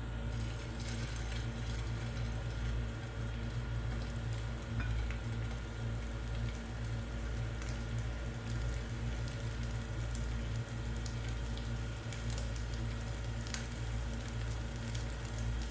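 Small chicken-mince kababs sizzling and crackling as they shallow-fry in a little oil in a pan, with a steady low hum underneath.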